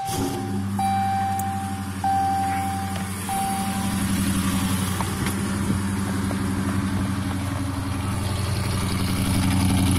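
2015 Dodge Challenger R/T's 5.7-litre Hemi V8 catches and settles into a steady cold-start idle through Kooks long-tube headers and a Corsa Xtreme exhaust with the catalytic converters deleted, getting a little louder near the end. A car warning chime rings about four times in the first four seconds.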